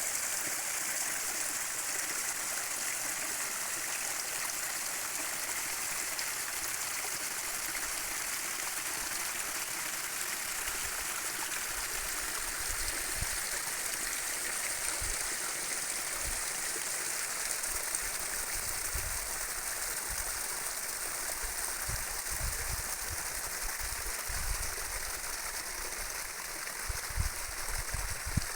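Steady rushing of a stream of running water. From about halfway through, irregular low bumps come in under it, growing stronger near the end.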